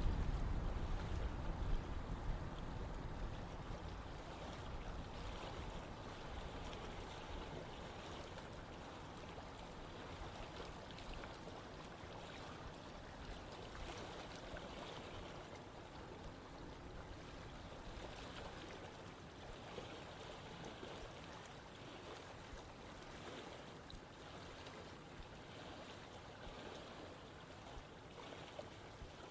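Running water of a river or stream flowing steadily with an even rushing sound. A deep rumble under it at the start dies away over the first few seconds, and the whole sound grows slowly quieter.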